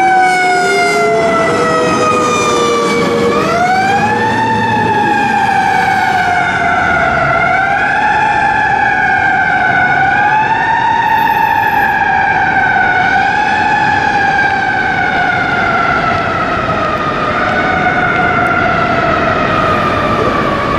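Siren of a 2007 American LaFrance fire engine wailing on a call, its pitch sliding down and rising again every few seconds. A second, lower siren tone winds up over the first two seconds, holds, then dies away about five seconds in.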